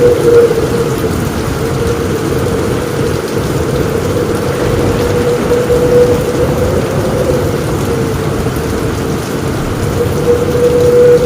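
Heavy rain falling steadily on a roof, a dense, even drumming with most of its weight in the low range.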